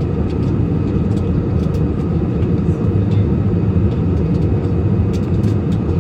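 Steady in-flight airliner cabin noise: the even, low rumble of the engines and airflow through the fuselage, with a few faint clicks.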